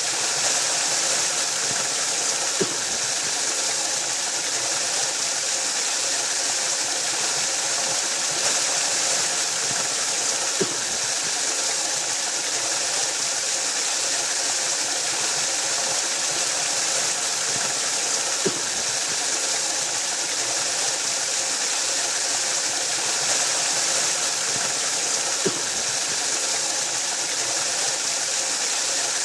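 Waterfall: a steady rush of falling water, with four faint low thumps spaced about seven to eight seconds apart.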